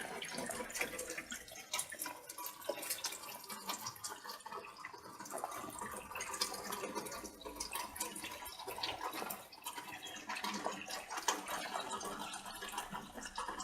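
Light rain falling, many small drops pattering and dripping over a steady soft hiss.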